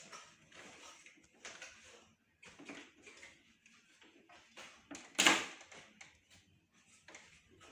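Handling noises from the aircon parts being cleaned: short, irregular rubbing and scraping sounds, the loudest about five seconds in.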